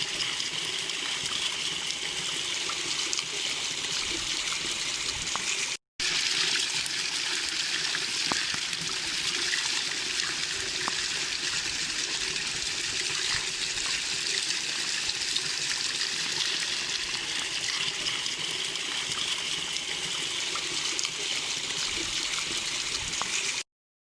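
Small waterfall, water pouring and splashing in a steady rush. It cuts out for a moment about six seconds in and stops abruptly just before the end.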